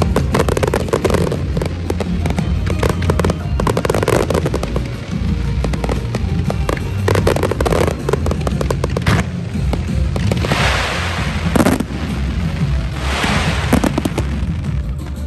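Fireworks display with a rapid, continuous run of bangs and pops from many shells. Two longer spells of dense crackling come about two-thirds of the way through and again near the end.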